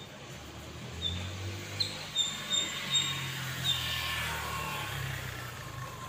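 Small bird chirping: short, high, clear notes repeated every half second or so. Underneath, the low rumble of a passing vehicle swells from about a second in and fades near the end.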